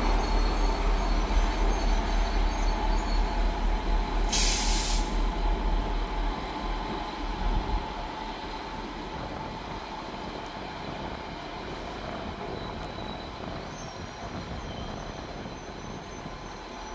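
Freight train passing through, its wagons rolling by with an uneven pulsing clatter that fades over the first six seconds or so as the train draws away, leaving a steady low rumble. A short hiss about four seconds in.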